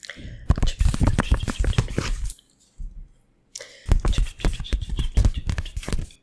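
ASMR chopping sounds: rapid runs of quick, sharp taps and strikes from the hands making chopping motions close to the microphone. They come in two bursts of about two seconds each, with a short pause near the middle.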